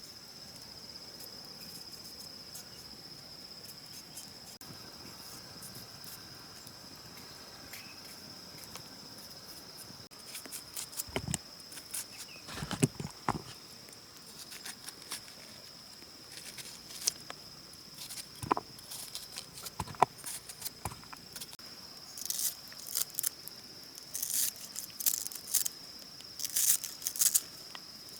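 A steady insect chorus holding one high pitch. From about ten seconds in it is joined by scattered sharp knocks, clicks and rustling, which are the loudest sounds.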